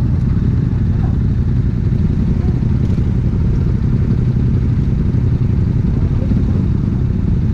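Steady low engine hum of idling traffic: the Yamaha YZF-R125's single-cylinder engine ticking over, with a coach idling right alongside.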